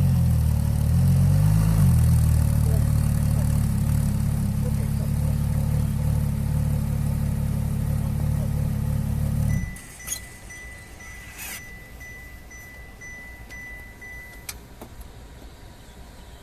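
Ferrari LaFerrari Aperta's V12 idling, with a short blip of the throttle about a second in, then cutting off abruptly a little over halfway through. A steady high electronic beep with a faster pulsing beep over it follows for about five seconds, with a few light clicks.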